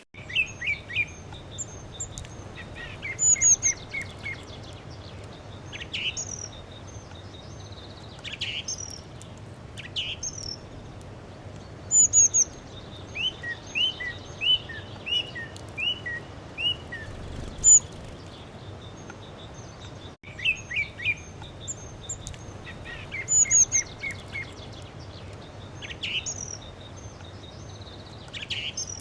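Songbirds singing and chirping, with short calls and quick runs of repeated notes over a steady background hiss. The sound cuts out for an instant about two-thirds of the way through.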